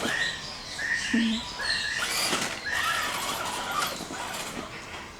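Several birds calling at once: short squeaky chirps repeat over and over and overlap, with a brief low note about a second in.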